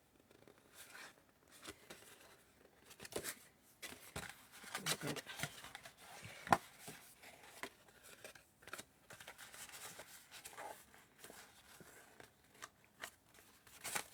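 Cardstock and paper being handled and worked on a craft table: irregular rustling, scraping strokes and light taps and clicks.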